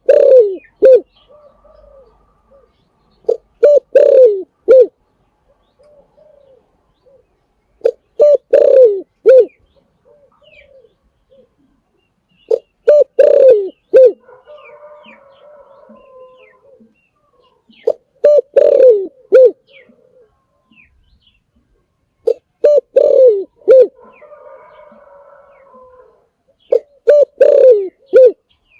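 Spotted dove cooing: a phrase of several low, loud coos, the strongest sliding down in pitch, repeated about every four to five seconds, seven times. Fainter twittering of other birds is heard between some of the phrases.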